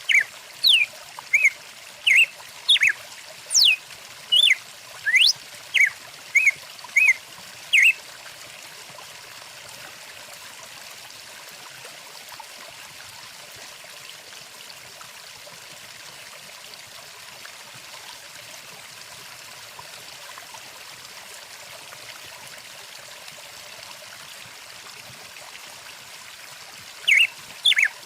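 Stream water running steadily, with a songbird giving a quick series of short chirps and sweeping whistles for the first eight seconds or so, then only the water until the calls start again near the end. The bird calls are the loudest sounds.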